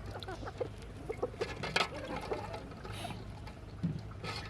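Liquid being poured and sloshed, with small sharp knocks and clinks.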